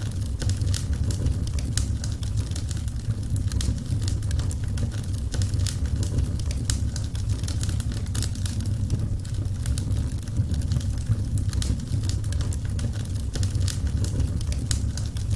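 Wood fire crackling: many small, irregular sharp pops and snaps over a steady low rumble.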